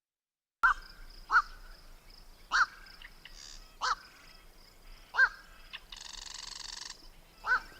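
Black-crowned night heron giving short, harsh single 'quok' calls, about seven of them, spaced roughly one to one and a half seconds apart, the last two close together near the end.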